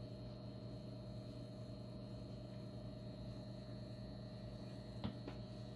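Dialysis machine running in service mode: a steady hum made of several constant tones with a thin high whine, and two light clicks about five seconds in.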